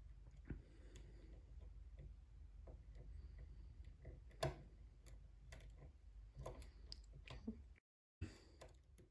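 Faint, scattered clicks and scrapes of a hook pick working the pins inside a pin-tumbler challenge lock under tension, the loudest about halfway through. The sound drops out completely for a moment near the end.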